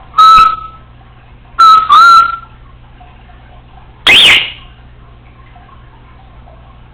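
Congo African grey parrot giving loud whistles: a short one at the start, two more close together about a second and a half in, then a sharper call that drops in pitch about four seconds in.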